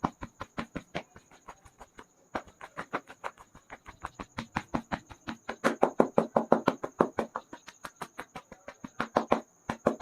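Hands striking rapidly and rhythmically on a person's head during a barber's head massage, about six or seven slaps a second with a brief pause near the start. A steady high chirring runs behind it.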